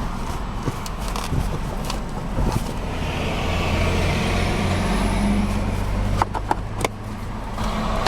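Steady low rumble of a motor vehicle, with a hiss that swells in the middle and a few sharp clicks near the end.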